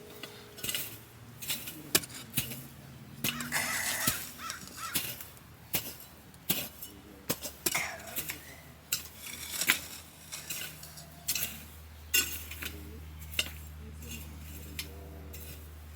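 Irregular clinks and knocks of objects being handled, with a short harsh bird call about four seconds in and a low steady hum in the second half.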